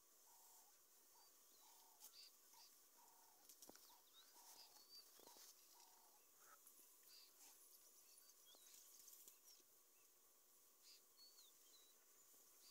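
Near silence: faint open-grassland ambience with a few faint, short bird chirps scattered throughout.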